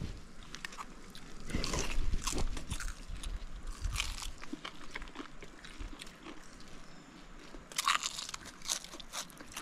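Close-up biting and chewing of a crisp tortilla browned in fried-fish fat, with irregular crunches and crackles. The louder crunches come about two seconds in and again near the end.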